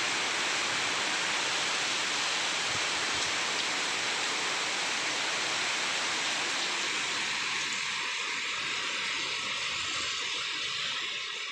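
Heavy rain falling in wind: a steady, even hiss that thins a little about seven seconds in.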